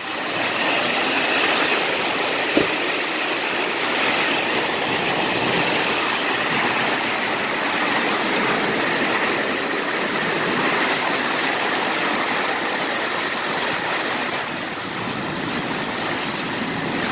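Heavy rain hitting a tin awning, a loud, steady, dense hiss, with one sharp knock about two and a half seconds in.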